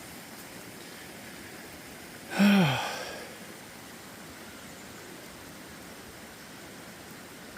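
Steady hiss of light rain, with a man's single short falling vocal sound, like a sigh, about two and a half seconds in.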